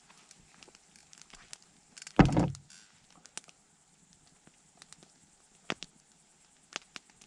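Campfire crackling with sparse sharp pops, and one loud dull thump about two seconds in.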